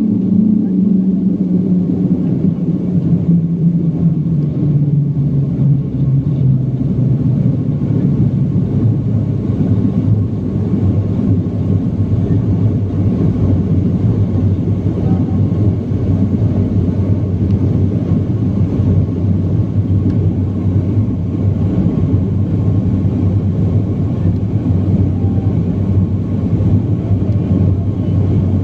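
Steady cabin noise of a BAe 146 airliner in flight, from its four turbofan engines and the airflow. A low engine tone falls in pitch over the first several seconds as the engines slow, then holds steady.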